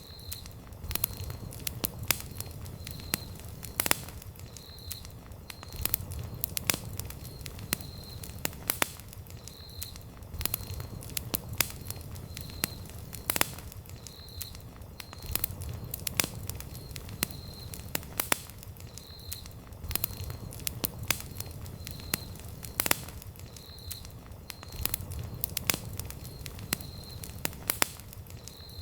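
Wood campfire crackling: irregular sharp pops and snaps from burning logs over a low steady rumble of the flames.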